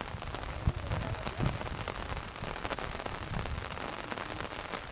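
Steady heavy rain falling on surfaces, a dense patter of drops, with a few dull low thuds.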